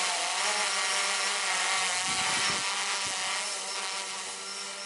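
Camera drone's propellers and motors buzzing overhead with a steady whine, growing fainter as it climbs away.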